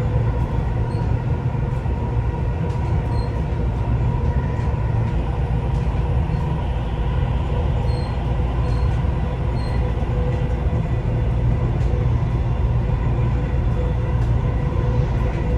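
Dubai Metro train running steadily between stations, heard inside the carriage: a steady rumble of wheels on track with a steady whine from the drive.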